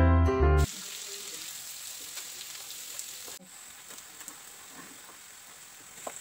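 Chopped shallots frying in hot oil in a pan: a steady sizzle with small crackles and pops. A short bit of background music cuts off just before the sizzling starts.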